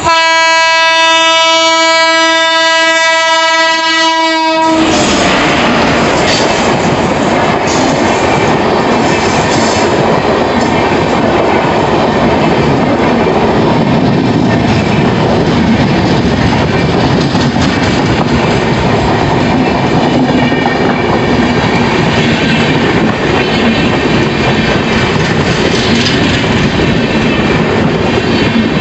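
An Indian Railways passenger train's horn sounds one long steady blast for about four and a half seconds, then cuts off. The train then runs past close by: a loud, steady rumble of its wheels on the track, with faint rhythmic clatter from the LHB coaches.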